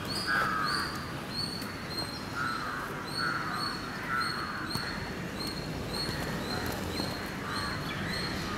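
Birds calling: a small bird repeats one short high note about twice a second, while crows caw now and then.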